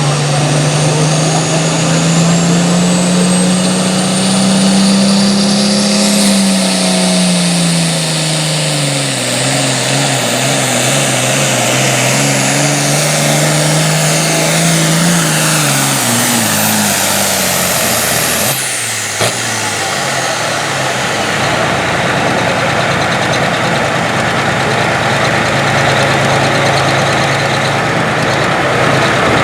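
Turbocharged diesel pulling tractor making a pull at full throttle: the engine note rises and sags under load, and a high turbo whine climbs over the first six seconds. About two-thirds of the way in there is a sharp pop as the throttle shuts, and the engine and turbo whine fall away.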